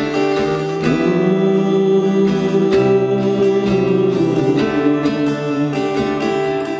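Instrumental break in a folk song: acoustic guitar strummed chords, with long held melody notes over them from about a second in.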